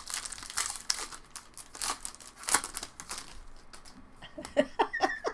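Plastic-foil wrappers of baseball card packs crinkling and tearing as packs are opened by hand, a quick run of crackles that thins out after about three seconds.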